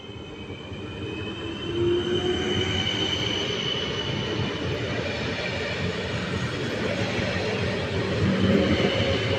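A train rolling on station tracks: steady wheel-on-rail rumble with a high, thin wheel squeal over it, getting louder about two seconds in.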